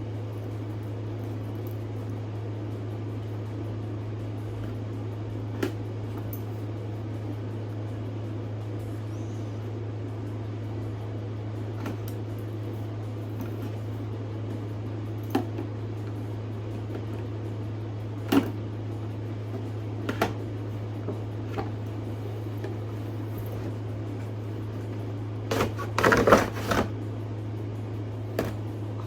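Steady low hum under scattered handling noise as a boxed fashion doll is unpacked: a few sharp clicks of plastic and cardboard packaging, then a brief cluster of louder knocks and rustling near the end.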